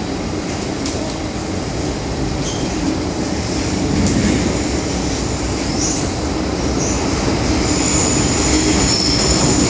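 MTR M-Train metro train running on the rails: a steady rumble of wheels and rail that grows slowly louder. Thin, high wheel squeals come in from about six seconds in.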